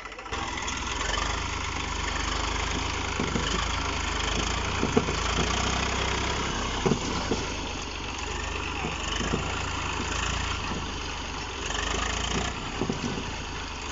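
Tractor engine running steadily with a low rumble and a constant hiss, which jumps louder just after the start. A few short knocks sound here and there.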